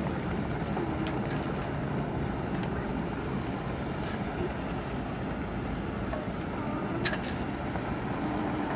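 Steady low rumble of a boat engine running on the harbor, with a brief click about seven seconds in.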